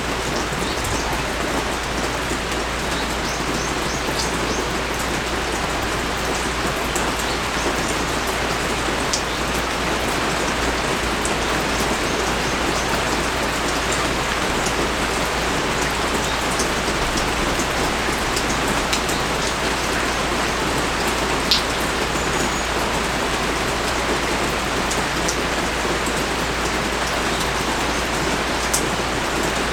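Heavy rain pouring steadily, with scattered individual drops ticking close by; one drop lands louder about two-thirds of the way through.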